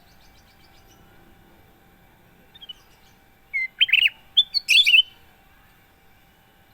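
Kutilang emas, a bulbul, giving a short burst of bright whistled chirps about halfway in, lasting around a second and a half. A few faint notes come before it.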